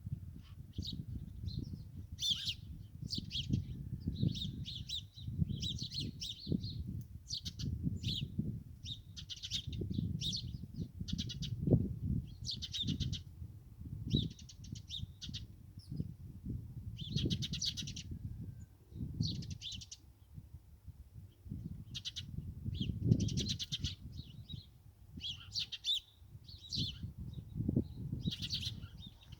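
Small songbirds chirping in quick, repeated bursts, one burst after another every second or so, over a low, uneven rumble.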